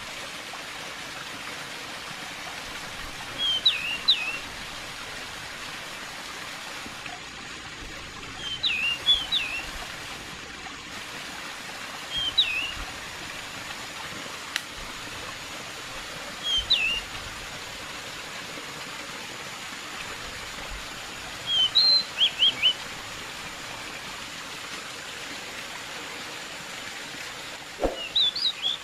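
Steady running water, like a stream or small waterfall, with a small songbird giving short bursts of quick down-slurred chirps about every four to five seconds. A soft knock comes near the end.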